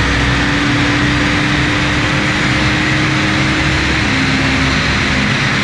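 Audi A6 Avant turbodiesel running under load on a chassis dynamometer over a loud, steady rush. Its engine note climbs slowly, steps down about four seconds in and fades out near the end.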